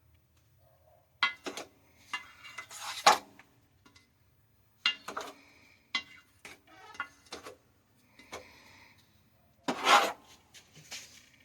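Small metal parts and hand tools clinking and rattling as they are handled, in short scattered clatters with quiet gaps, the loudest about ten seconds in.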